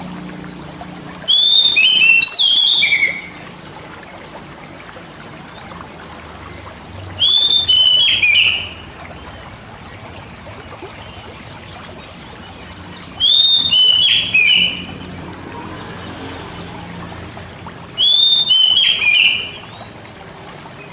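Oriental magpie-robin (kacer) song: the same short phrase of whistled notes sung four times, each lasting under two seconds, with about three seconds of pause between phrases.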